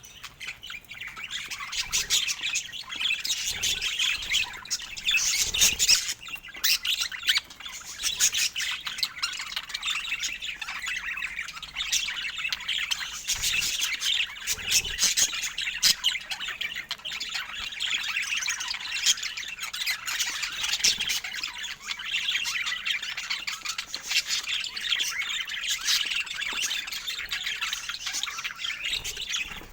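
Budgerigars chattering and squawking without pause, a dense mix of chirps, warbles and clicks.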